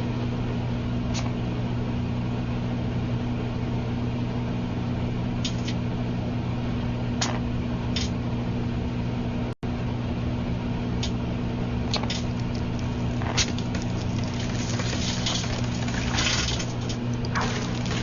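Microwave oven running with a steady low hum while a mobile phone is heated inside. Sharp crackles and pops come now and then and grow more frequent near the end.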